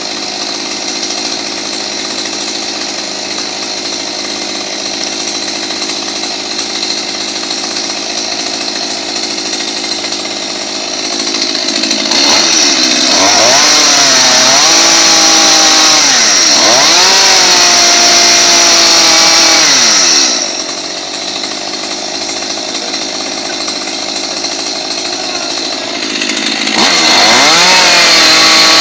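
Chainsaw running at a lower steady speed, then revved up loud twice, with its pitch sagging and recovering repeatedly during the high-revving stretch as the chain cuts into a pumpkin.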